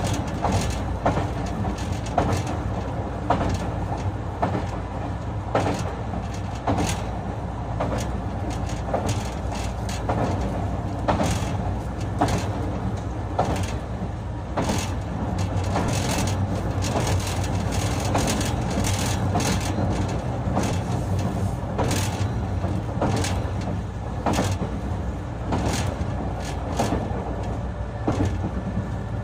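JR West 221 series electric train heard from inside its motor car (MoHa 221-66) while running: a steady rumble and low hum with irregular clacks and knocks of the wheels over rail joints.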